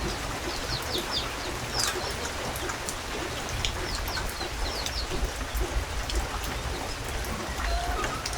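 Steady rain with scattered raindrop ticks, and birds giving short, high chirps again and again.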